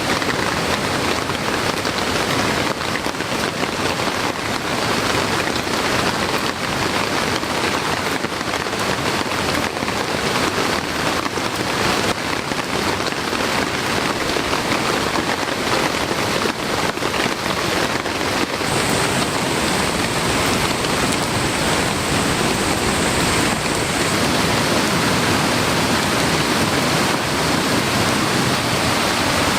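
Heavy rain falling steadily, with the patter of individual drops. About two-thirds of the way through it gives way to a deeper, smoother rush of fast-flowing water from a swollen mountain stream.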